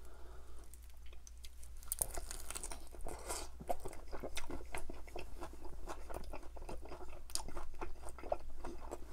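Close-miked biting and chewing of a crispy oven-baked chicken drumstick coated in butter chicken sauce, with many small irregular crunches that start about two seconds in.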